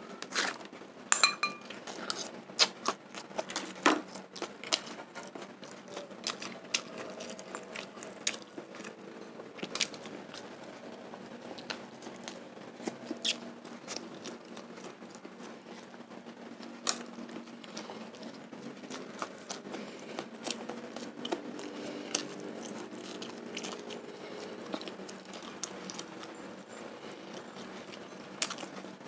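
Eating sounds: chewing and lip smacks on sate kere, soft grilled skewers of tofu dregs (tahu gembos/oncom), with many sharp clicks scattered throughout, densest in the first few seconds.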